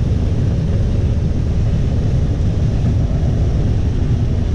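Combine harvesting corn, its engine and machinery running with a steady low drone.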